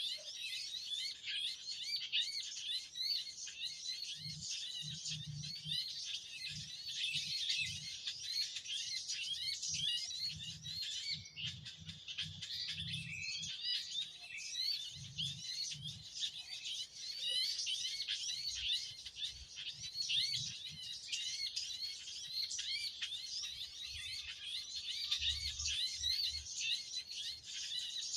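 A dense, continuous chorus of small birds chirping rapidly and high-pitched, the overlapping calls of many birds at once. Low dull bumps come and go underneath for much of the time.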